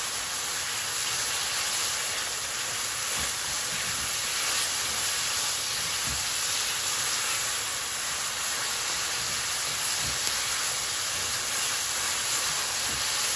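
Sliced onions and tomatoes sizzling in hot oil in a wok, a steady hiss, with a slotted spatula scraping and knocking softly against the pan now and then as they are stirred.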